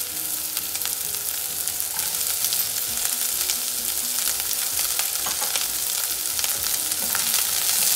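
Onions, garlic and green chilli sizzling steadily in hot oil in a nonstick wok, with small crackles, as chopped green beans are tipped in.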